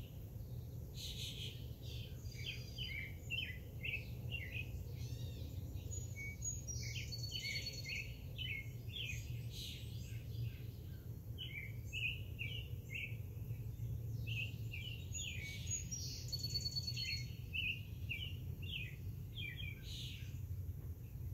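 Several songbirds chirping and singing, with many short calls and a few held whistles, over a steady low background rumble.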